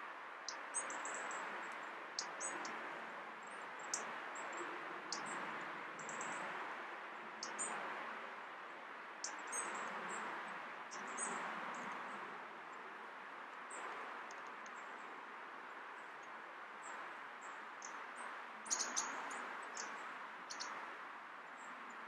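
Thin, high bird calls: short single notes scattered every second or two, with a quick cluster near the end, over a steady background hiss and hum.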